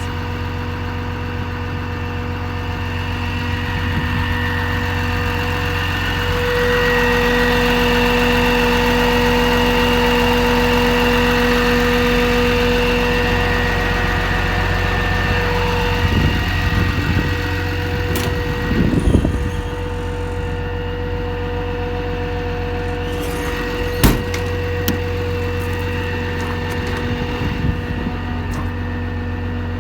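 A 2008 Dodge Ram 5500's 6.7-litre Cummins inline-six turbo diesel idling steadily, getting a little louder about six seconds in. A few clicks and knocks come past the middle, with one sharp knock about two-thirds of the way through.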